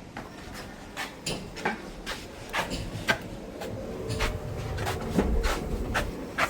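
Footsteps on a hard floor, about two a second, some with a short squeak or click, with a low rumble rising and fading in the middle.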